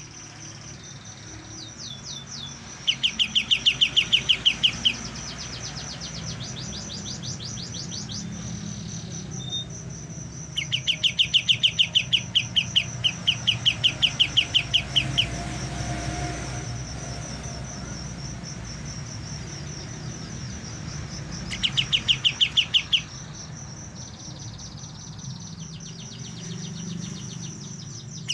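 A young kapas tembak songbird, just starting to learn its song, giving three bouts of fast repeated chirping notes, each bout lasting a second or two up to about four seconds. A steady high-pitched whine runs underneath.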